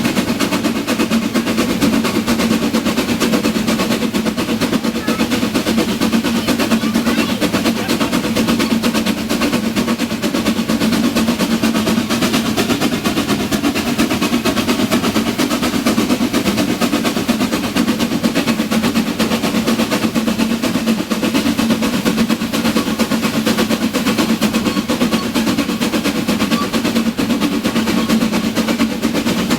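Harz narrow-gauge steam train running: a fast, continuous rattle of rapid beats with a steady hum underneath.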